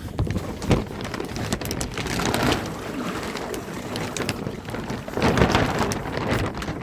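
Water splashing and running: a dense hiss full of small taps, swelling louder about two seconds in and again about five seconds in.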